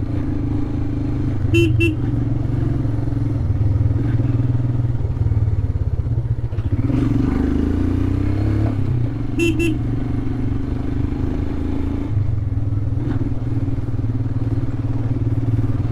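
Royal Enfield Himalayan's 411 cc single-cylinder engine running under way, its pitch dipping and rising again a little past the middle. A vehicle horn gives a quick double toot about two seconds in and again about nine and a half seconds in.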